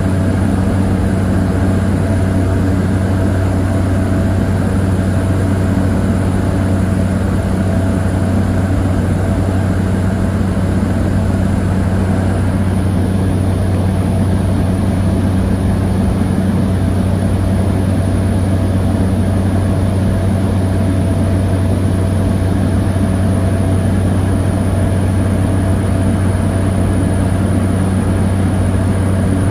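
Cessna 208 Caravan's single turboprop engine and propeller droning steadily, heard from inside the passenger cabin in flight.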